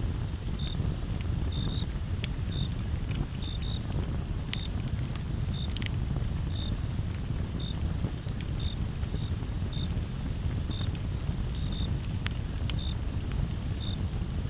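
Wood fire crackling and popping with scattered sharp snaps over a low steady rumble. Behind it, crickets chirp: a steady high trill with shorter chirps repeating about twice a second.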